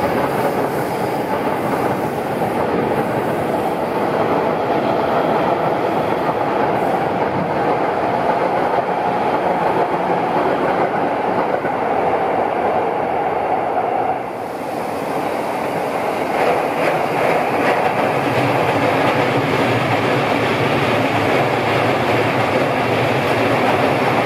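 Electric commuter trains running on the tracks below: a steady rumble of wheels on rail with clickety-clack. The noise dips briefly about two-thirds of the way through, then a second train's running noise follows.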